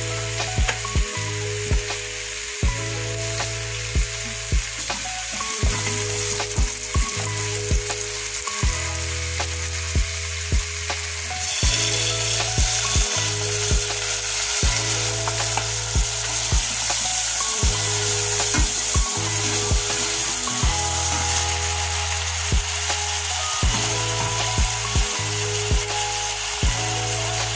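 Onions and chopped tomatoes sizzling in hot oil in a stainless steel pot while being stirred; the sizzle gets louder about twelve seconds in. Background music with a steady beat and bass line plays throughout.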